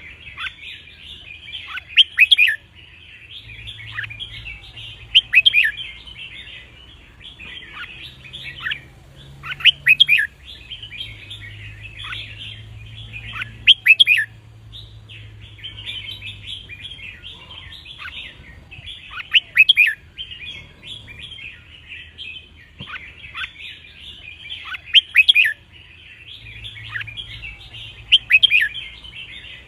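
Red-whiskered bulbuls singing: a steady twittering chatter with a louder, sharp song phrase breaking through every three to five seconds.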